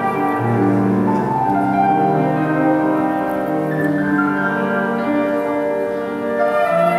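Flute and piano playing classical music, the piano most prominent, with held chords and a melody line above.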